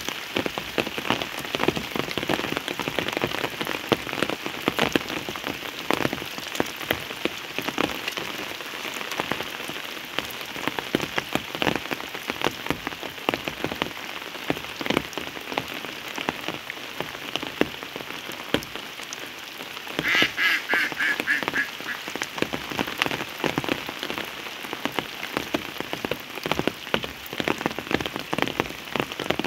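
Steady rain falling, with many individual drops striking close by. About twenty seconds in, a brief, rapid pulsed call rises above the rain.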